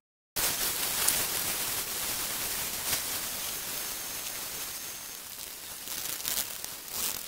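Steady hiss of rain falling, with a few faint knocks and clicks.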